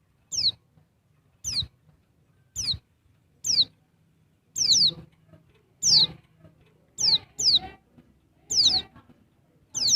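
Female pleci (white-eye) calling: short, high, downward-sliding chirps about once a second, often in quick pairs, with a faint low hum underneath.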